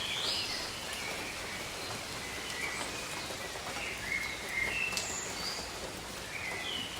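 Steady rain falling on foliage, with birds giving short chirps and whistles through it, and a single sharp click about five seconds in.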